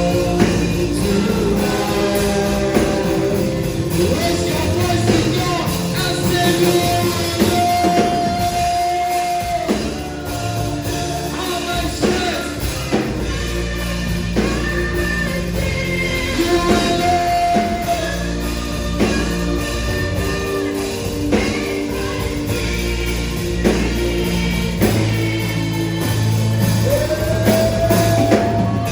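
Live worship music: slow band accompaniment with singing, including several long held notes.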